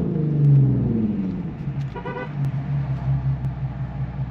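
Infiniti Q50 engine coming down from a rev, its pitch falling over the first second or so, then settling into a steady, low, pulsing idle. A brief higher tone sounds about two seconds in.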